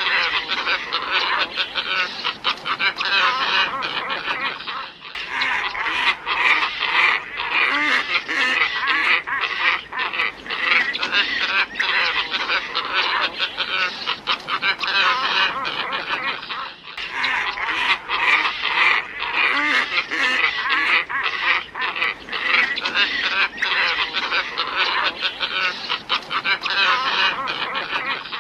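Glossy ibis calling: a dense chorus of many birds' harsh, nasal calls overlapping without pause, with short breaks about five and seventeen seconds in. It is a recorded lure call, played to draw glossy ibis in.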